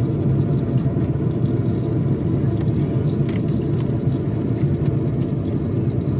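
Steady low rumble with no change in level throughout.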